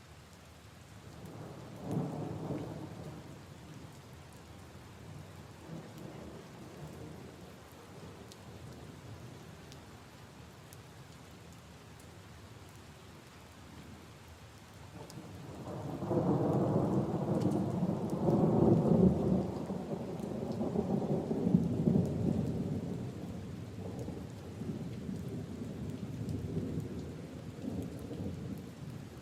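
Steady rain falling on leaves and puddles. A short rumble of thunder comes about two seconds in. A longer, louder roll of thunder builds from about halfway and fades over the next several seconds.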